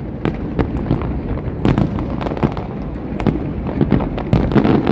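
Aerial fireworks shells bursting: irregular bangs and cracks, a few every second, over a continuous low rumble.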